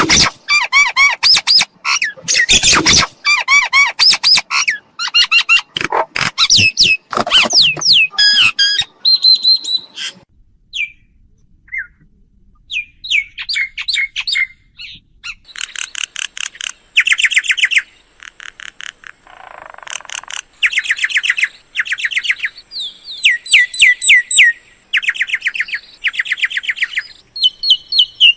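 Mynas calling: dense, harsh squawks and chatter for the first several seconds, a sparse lull, then, from about halfway, rapid trains of repeated high notes.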